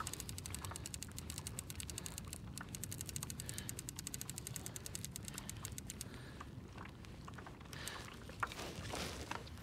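Fishing reel being cranked to bring in a hooked fish, its gears ticking in a rapid, even run of clicks. The clicking stops about six seconds in, leaving a few scattered knocks.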